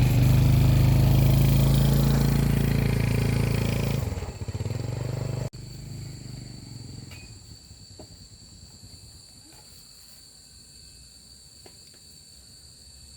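Motorcycle engine starting and running loudly for about four seconds, then dropping and fading away into the distance. Steady high-pitched insect chirring continues throughout.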